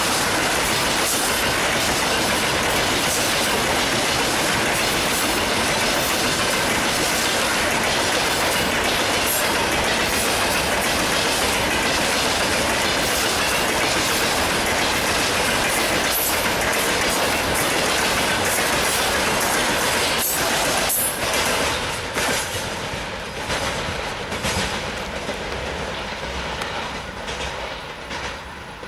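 Freight train rolling past at speed: a steady loud rumble and clatter of wagon wheels over the rails. About twenty seconds in, the clatter breaks into separate wheel clacks and fades as the train moves away.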